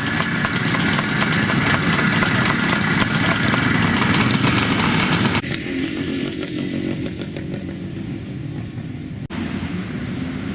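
Motocross bikes racing, their engines running hard at high revs. About five seconds in the sound drops abruptly to quieter, lower engine noise, and it breaks off briefly a little after nine seconds.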